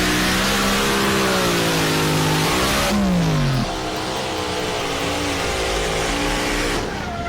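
Engine of a pulling tractor running hard at high revs, its pitch wavering up and down over loud exhaust noise. About three seconds in the pitch drops sharply as the engine comes off the throttle, then it runs on at a lower, uneven pitch.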